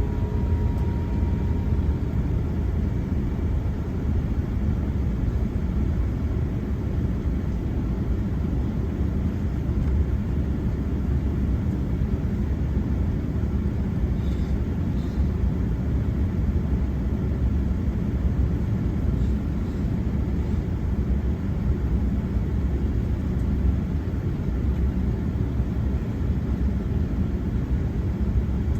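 Steady rumble of an Airbus A380's engines and airframe heard from inside the passenger cabin, the noise strongest in the low range and holding an even level.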